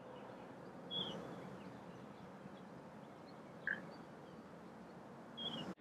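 Faint outdoor background noise with a few short bird chirps: one about a second in, a slightly louder one past the middle, and another near the end.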